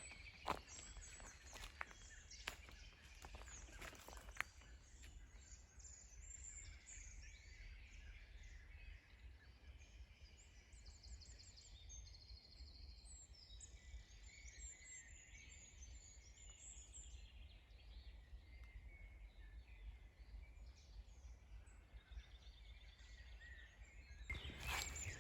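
Faint birdsong: many short chirps and trills from several small birds, with a few sharp clicks in the first five seconds.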